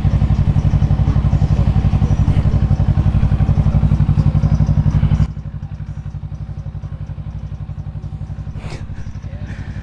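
Motorcycle engine idling with a rapid, even pulse, the exhaust of a Kawasaki Ninja 650 parallel twin. About five seconds in the sound drops suddenly to a quieter, duller level while the same idle pulse carries on.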